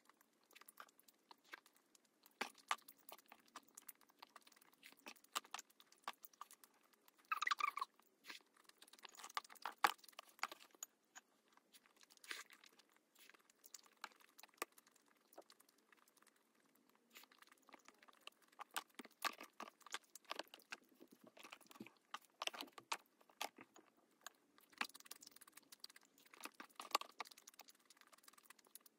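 Close-miked chewing, biting and wet mouth sounds of someone eating spicy tteokbokki and boneless chicken feet, with many short clicks and smacks scattered throughout.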